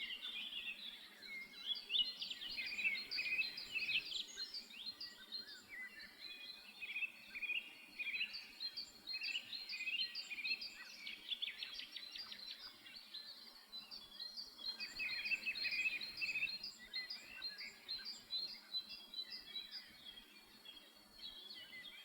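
Small songbird chirping busily: rapid runs of short, high chirps that come in clusters with brief lulls between them.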